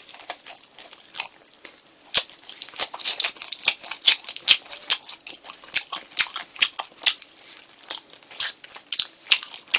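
A person biting and chewing spicy grilled chicken wings close to the microphone: a quick, irregular run of wet sharp clicks and crackles as the meat is pulled off the bone and chewed.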